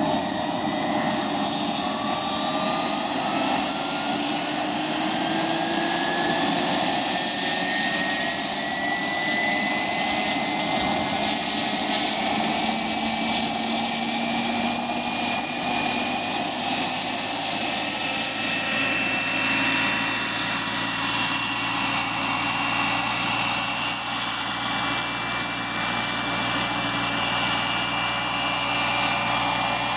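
Wren 44 gas turbine whining in a radio-control helicopter with Hirobo Freya mechanics, with the rush of its rotor. Several high whining tones rise slowly through the first half and level off a little past the middle as the turbine and rotor settle at a steady speed.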